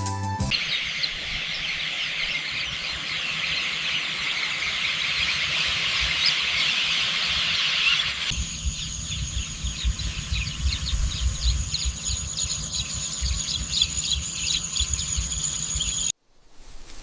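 Outdoor countryside ambience full of dense, rapid high-pitched chirping calls. About eight seconds in it changes abruptly to a steady high whine with scattered chirps and a low rumble, and it cuts off sharply near the end.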